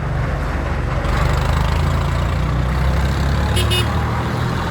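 Diesel engines of vintage farm tractors running steadily as they drive past in a line. There is a short high chirp near the end.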